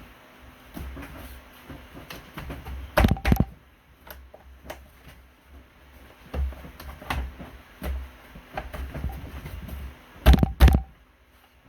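Handling noises with scattered taps and clicks, broken by two pairs of sharp knocks, about three seconds in and again near the end.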